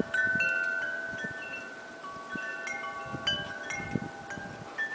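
Wind chimes ringing: several clear metal tones of different pitches struck at irregular moments, each ringing on and overlapping the others.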